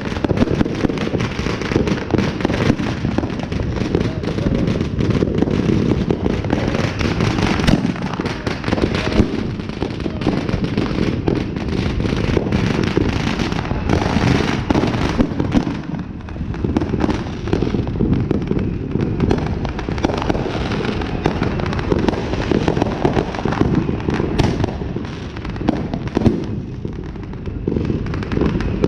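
Consumer fireworks and firecrackers going off all around in a dense, continuous barrage of pops and bangs, with no pause.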